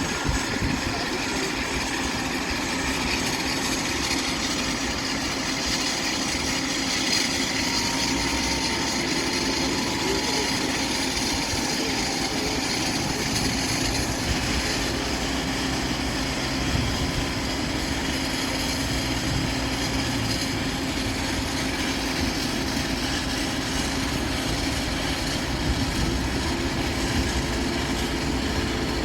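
Airbus A320 turbines running steadily on the apron: a constant turbine whine with several held tones over a low rumble.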